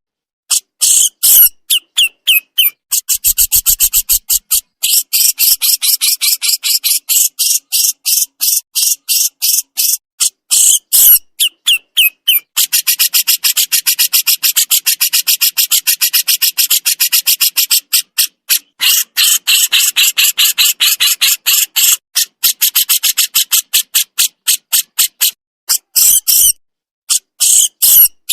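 Crescent-chested babbler (burung jenggot) giving its besetan, a harsh, high-pitched chatter of rapid notes in long fast runs, with a couple of short breaks.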